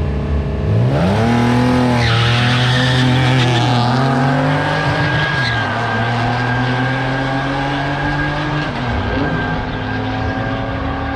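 A Mitsubishi drag car launching and running hard down the quarter mile. The engine's pitch rises sharply about a second in, then climbs and drops several times through the gear changes. The tires squeal the whole way down the track.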